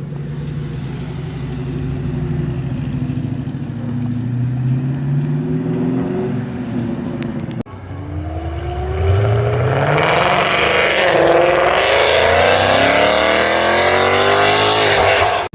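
A car engine running at low revs, its pitch creeping up. After a brief break about halfway, a car accelerates hard, its engine note climbing steadily and getting louder for several seconds.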